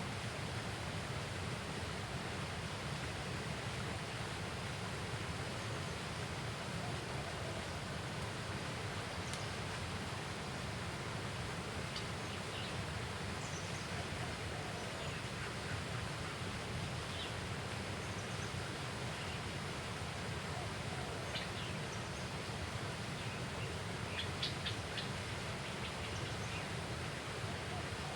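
Steady outdoor background hiss with faint, short bird chirps scattered through it, and a quick run of chirps near the end.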